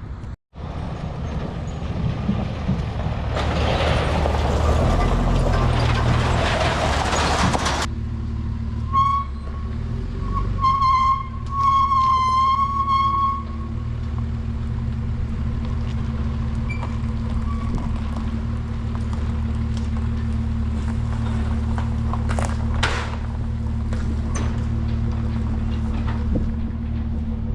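Large vehicle engine idling with a steady low hum. A loud hiss of air lasts a few seconds near the start, and a wavering high tone sounds a few times around the middle.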